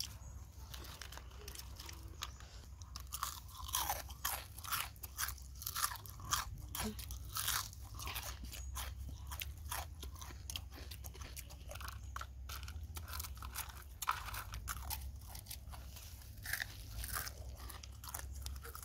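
Close-up crunching and chewing of fried flour-battered food: many sharp crunches, thickest from about four to eight seconds in, over a steady low rumble.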